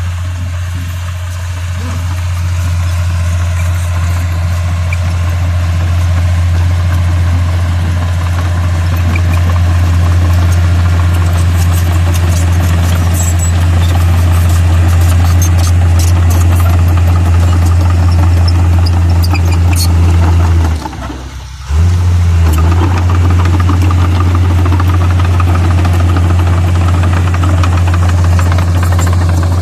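Bulldozer's diesel engine running steadily with a loud, low drone, with a brief break of about a second roughly two-thirds of the way through.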